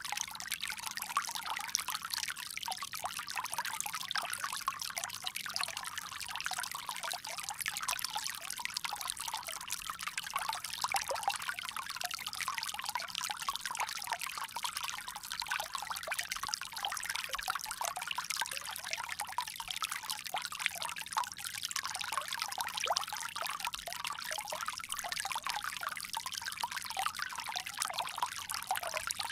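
Water pouring and trickling steadily from a bamboo spout, a continuous splashing with fine, rapid flicker and no pauses.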